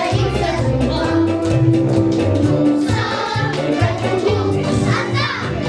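A choir singing a song over instrumental accompaniment, with a steady rhythmic bass line under the voices.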